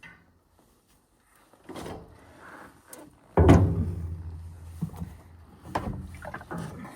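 A series of knocks and clunks of heavy things being handled. The loudest is a hollow clunk about three and a half seconds in that rings on briefly with a low hum.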